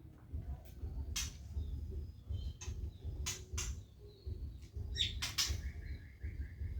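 Caged birds chirping, ending in a rapid run of short repeated chirps, over a low rumble with several sharp knocks and clatter.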